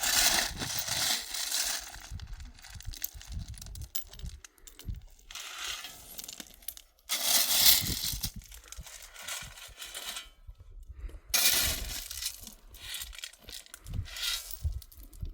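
Small pebbles clattering and crunching in several separate bursts, each a second or two long, as handfuls of stones are scooped or poured.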